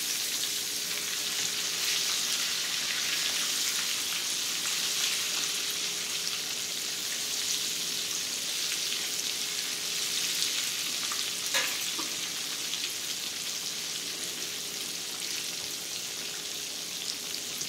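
Breaded pork chops frying in hot oil in a skillet: a steady, dense sizzle and crackle. A brief scrape sounds about two-thirds of the way through.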